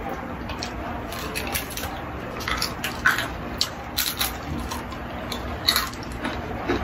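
Crunching of crispy deep-fried chicken skin being bitten and chewed, in sharp irregular crunches, the loudest about three, four and nearly six seconds in, over a steady background hiss.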